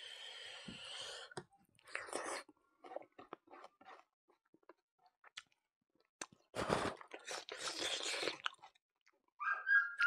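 Close-up chewing and wet mouth sounds of a man eating rice with his fingers, with scattered small clicks. There is a denser stretch of chewing about two-thirds of the way through.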